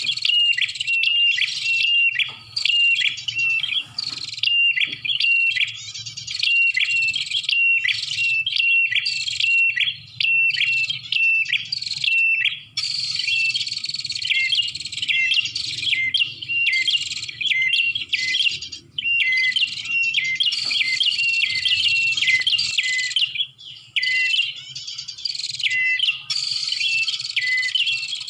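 Prinia (prenjak) calls played as a lure recording: loud, rapid, repeated sharp chirps that run on without a break, over a faint low hum.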